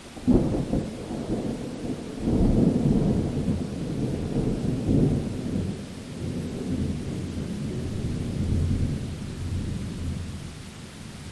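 Thunder during a rainstorm: a sudden clap about a third of a second in, then a long, low rolling rumble that swells again around two seconds in and slowly dies away over the steady hiss of rain.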